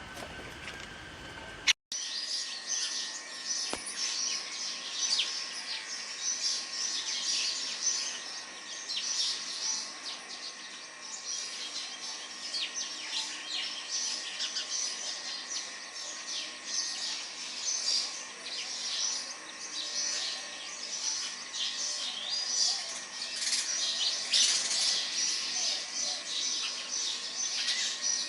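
A flock of small birds chirping continuously in a dense, overlapping chatter of short, high calls, over a faint steady hum. It starts abruptly about two seconds in, after a click.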